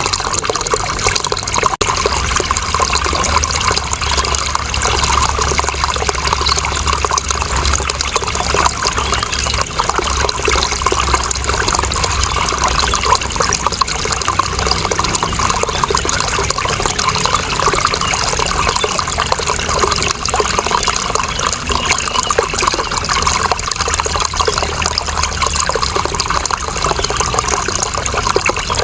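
Running water flowing steadily, an unbroken rush and splash.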